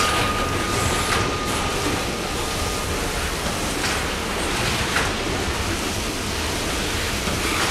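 Loaded coal hopper cars rolling past on the rails under a trackside coal sprayer, the spray hissing steadily onto the loads. A thin steady squeal sounds for the first few seconds, and a few sharp clicks come from the wheels.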